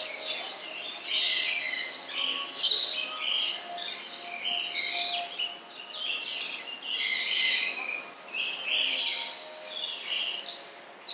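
Small birds chirping and calling: many short calls overlapping without a break.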